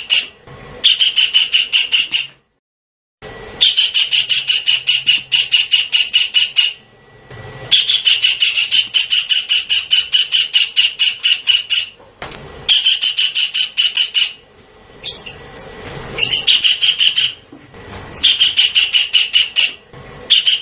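Javan kingfisher calling in a fast, harsh rattling series of about eight notes a second. The calls come in bouts of one to four seconds with short pauses between them, and there is a moment of dead silence about two and a half seconds in.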